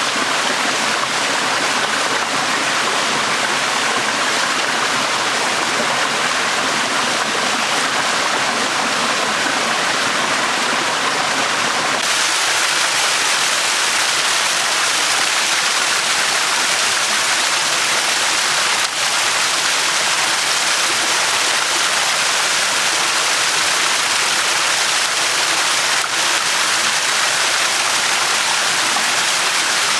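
Small shallow stream flowing steadily over stones, a continuous rush of water. About twelve seconds in it abruptly turns brighter and hissier.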